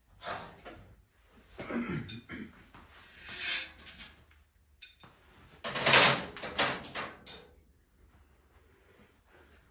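Metal tools and hardware clanking and rattling as they are handled, in several irregular bursts, the loudest about six seconds in.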